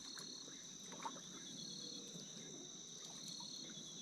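Crickets trilling steadily in two continuous high-pitched tones, with a few faint clicks.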